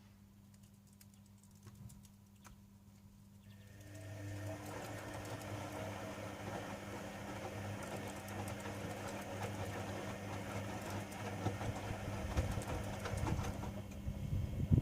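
Privileg Sensation 9245 washing machine starting up about four seconds in, then running with a steady mechanical hum and whir of its motor or pump.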